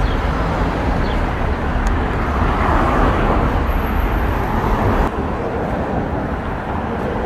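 Loud, steady rumble of city vehicle and traffic noise, swelling about three seconds in and dropping off suddenly about five seconds in.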